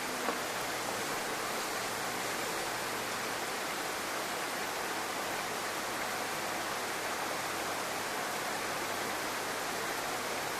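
Heavy typhoon rain falling steadily, a dense even hiss of rain.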